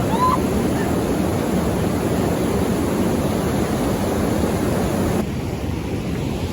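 Steady rush of a waterfall's falling water, a dense noise that is strongest in the low range. Near the end the hiss grows duller.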